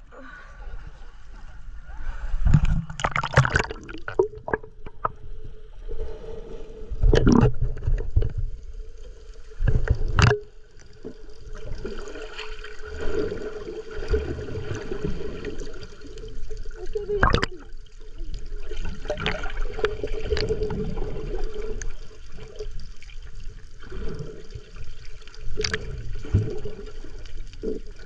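Sea water splashing and sloshing close to the microphone of a camera carried by a swimmer, with irregular splashes and faint, indistinct voices.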